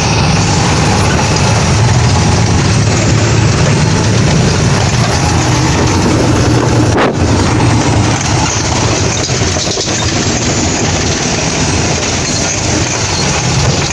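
Truck engine running loud and steady, with a brief click about seven seconds in.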